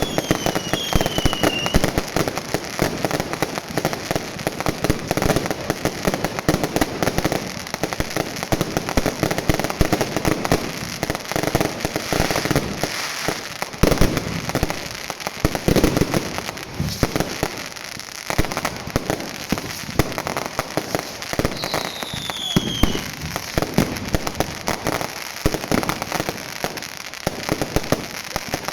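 Fireworks going off continuously: a dense, unbroken run of crackles and bangs. Falling whistles sound near the start and again about 22 seconds in.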